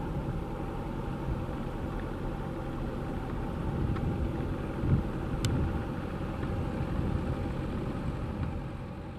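Jet engines of a Boeing 757-200 freighter, heard from the ground as a steady, deep noise during departure.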